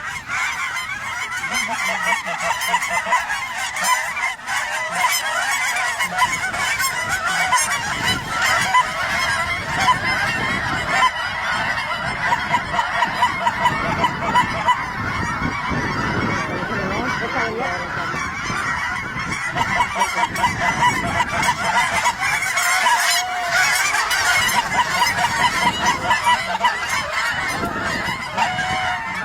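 A large flock of geese honking continuously, many short overlapping calls blending into one dense chorus.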